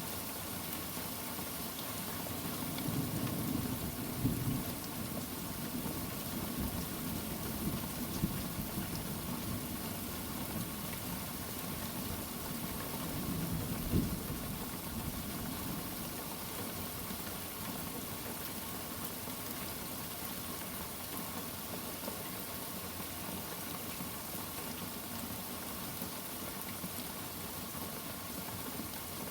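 Steady rain, with thunder rumbling low a few seconds in and again about halfway through, where a short sharp peak stands out.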